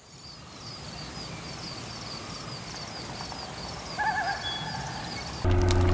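Quiet outdoor forest ambience with a small bird repeating a short high chirp several times a second. About four seconds in comes a brief, lower wavering call. Music starts suddenly near the end.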